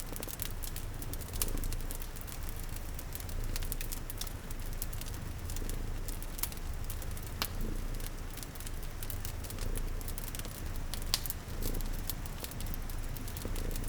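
A cat purring steadily under a crackling wood fire, whose sharp pops and snaps come irregularly, with a soft patter of rain behind.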